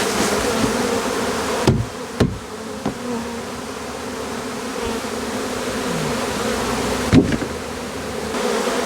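A mass of honeybees buzzing steadily, stirred up as they are shaken into a hive box, with three dull knocks, two close together about two seconds in and one near the end.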